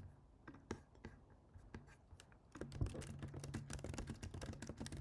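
Typing on a computer keyboard: a few scattered keystrokes over the first couple of seconds, then a quick run of rapid typing from about two and a half seconds in.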